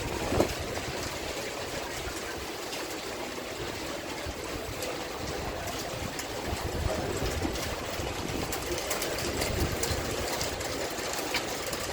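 Steady rain hiss with strong wind gusts rumbling on the microphone, and many small sharp ticks of raindrops. There is one sharper knock about half a second in.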